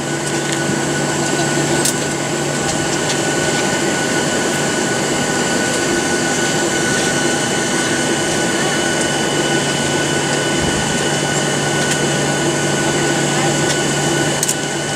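Steady cabin noise inside a Boeing 737-700 on the ground after landing: its CFM56-7B engines at idle and the cabin air system giving an even rushing sound with a few steady hums and whines over it. A couple of faint clicks are heard.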